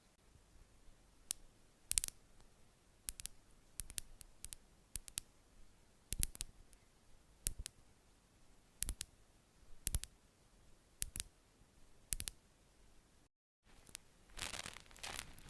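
A series of sharp, separate clicks or taps, irregularly about one a second. After a brief cut, a crackling rustle starts near the end.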